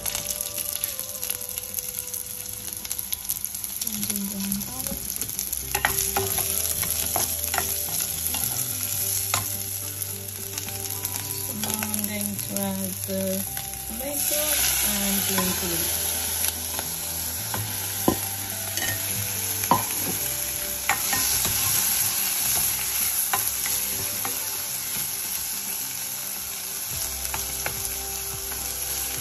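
Sliced onions and cumin seeds sizzling in hot oil in a pan, stirred with a spatula that scrapes and taps against the pan. About fourteen seconds in, chopped tomatoes go in and the sizzle gets louder.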